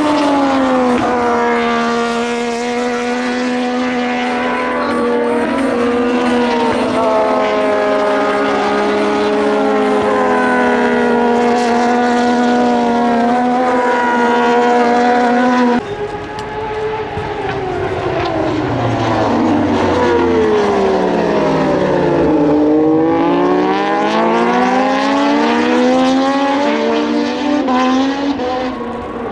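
Moto2 race bikes' Triumph 765 cc three-cylinder engines running hard on track, several at once, their pitch rising and falling with gear changes. About halfway the sound breaks off abruptly and goes on with another group, whose pitch falls to a low point and then climbs again.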